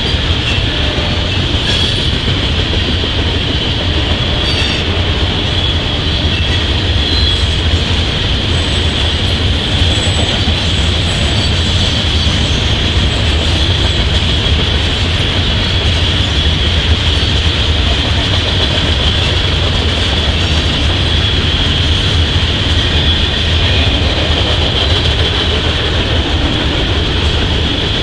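Long freight train of covered hopper cars rolling steadily past, wheels clattering over the rails, heard through a trackside webcam's microphone.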